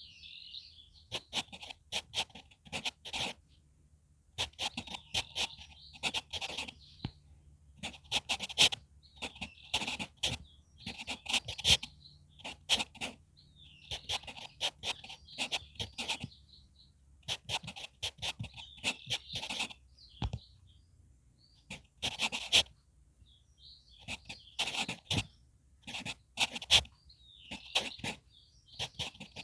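HB pencil writing on manuscript paper: short scratchy strokes in quick clusters, one burst after another with brief pauses between.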